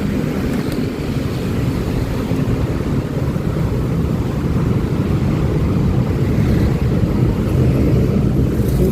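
Honda Click 125i scooter's single-cylinder engine running steadily while riding, mixed with road and passing-traffic noise, as a loud, even low rumble.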